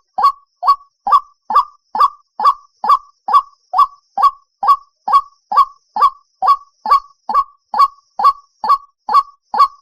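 White-breasted waterhen calling: a loud, monotonous string of short 'kook' notes, about two a second, evenly spaced and unchanging.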